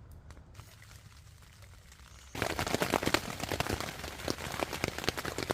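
Rain pattering hard on a surface, a dense stream of fine drips and ticks that starts abruptly about two seconds in after a faint low rumble.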